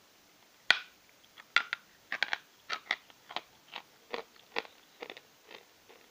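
Person biting into a piece of natural lump chalk with one sharp, loud crack, then chewing it with dry crunches about twice a second that grow fainter as it breaks down.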